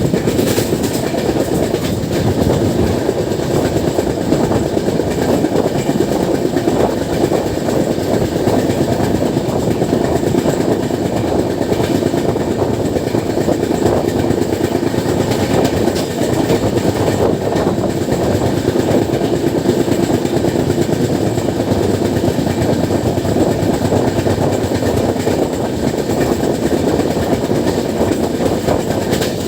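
Passenger train running at speed on the track: a steady, loud rumble of wheels on rails.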